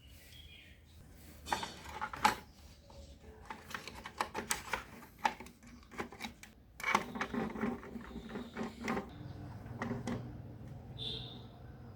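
Small hard objects clicking and clattering as they are handled and sorted, with irregular knocks throughout. A low steady hum comes in about three-quarters of the way through.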